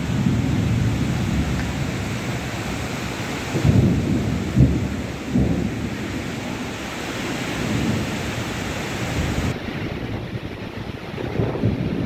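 Heavy rain pouring steadily, with low rumbling surges that swell and fade, strongest about four seconds in.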